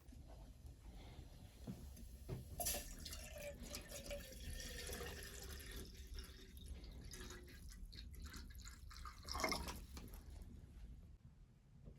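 Water dripping and trickling in irregular drops, with one louder short splash about nine and a half seconds in, over a low steady rumble.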